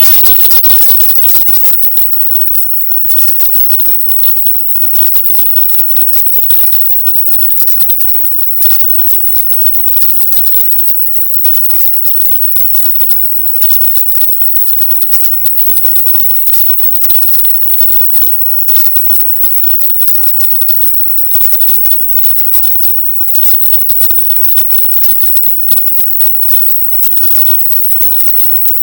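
A 'silent subliminal' audio track: a loud, dense hiss strongest in the high frequencies, fluttering and broken by many brief dropouts, with no clear tune or words.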